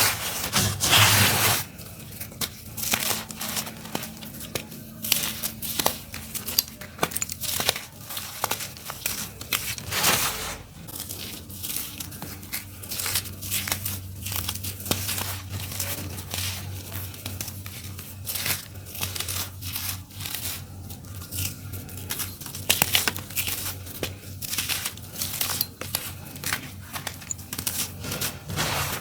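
Dry, crunchy clumps of earthy dirt being crumbled and crushed: a dense, irregular run of crunches and cracks, with louder bursts in the first second or so and again about ten seconds in.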